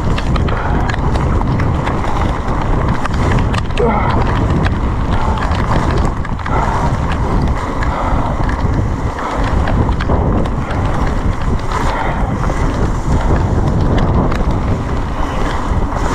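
Wind rushing over the microphone with tyre noise and rattles and knocks from an e-mountain bike riding fast down a wet trail in heavy rain.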